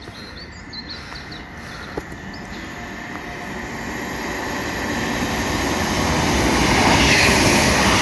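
ScotRail passenger train approaching and passing through the station at speed. Its rumble and rail noise build steadily and peak near the end as the carriages rush past.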